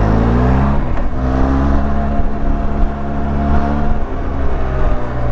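Benelli TRK 502X's parallel-twin engine pulling away, its pitch rising, then shifting up about a second in and running at a steady speed, with wind rush.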